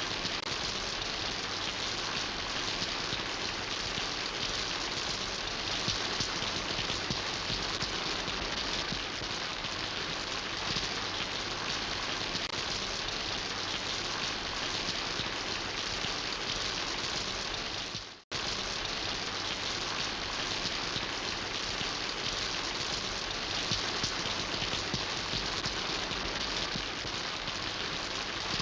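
Steady rain falling in a dense, even hiss of patter. About two-thirds of the way through it fades out to silence for a split second and cuts straight back in, like an edit splice in the recording.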